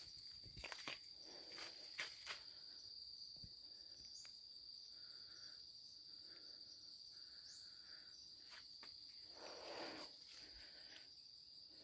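An insect's steady high-pitched trill, typical of a cricket, runs unbroken and quietly. A few crackles and rustles come in the first couple of seconds, and another rustle about ten seconds in.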